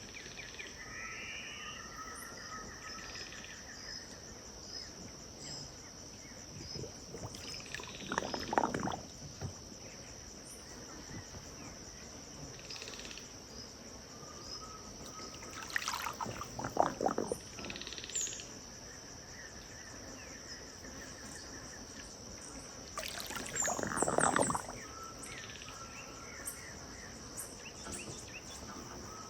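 Riverbank dusk ambience: a steady high insect drone with scattered bird chirps and short call series. Three loud, rough bursts, each a second or two long, come about a third of the way in, in the middle, and past three-quarters.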